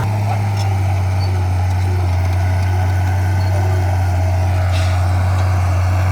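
Heavy earthmoving machine's diesel engine running steadily at one constant, deep pitch.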